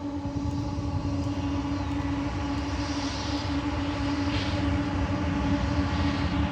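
BNSF GE ES44C4 diesel-electric locomotive running under power as the manifest train approaches, a steady engine hum over a low rumble that grows slightly louder.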